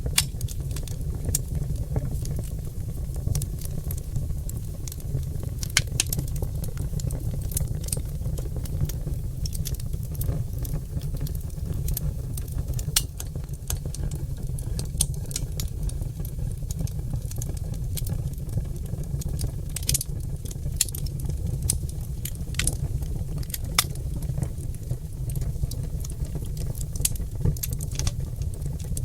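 Oak logs burning in a fireplace, crackling with irregular sharp pops over a steady low rumble of the flames.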